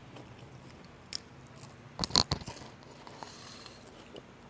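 A person chewing food close to the microphone, with a brief cluster of crunchy bites about two seconds in.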